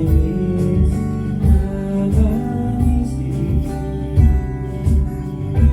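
A band playing: plucked guitar and bass notes over a steady kick-drum beat about twice a second.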